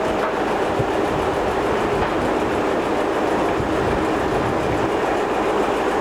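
A train running on the rails, with a steady rumble and wheel noise.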